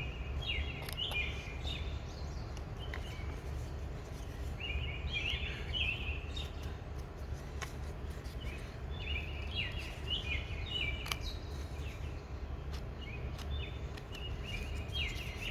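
A songbird singing in short phrases of quick stepped notes, about four phrases with pauses between, over a steady low hum and a few faint ticks.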